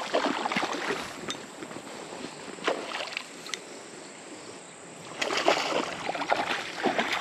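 Water splashing and sloshing in a shallow trout stream, in a few uneven bursts with small sharp clicks between, as a hooked trout is played toward the bank.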